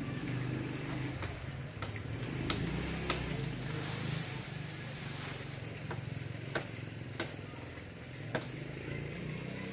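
Small top-handle chainsaw engine running steadily at moderate speed, with about half a dozen sharp knocks scattered through it.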